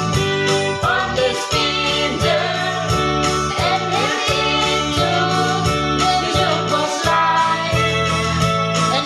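Singing over an instrumental backing with a steady, repeating beat.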